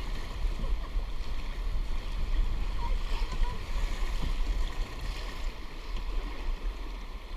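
Rushing river water around a canoe running a rapid, a steady churning noise, with wind rumbling on the microphone.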